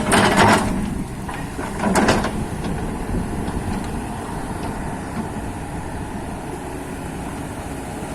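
Heavy diesel machinery running steadily with a low rumble. Sharp metallic clanks and knocks sound in the first second and again about two seconds in.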